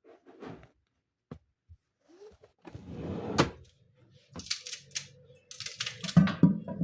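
Household handling sounds: scattered clicks and knocks, a short scraping or rustling stretch, then several brief hissing rustles and low thumps near the end.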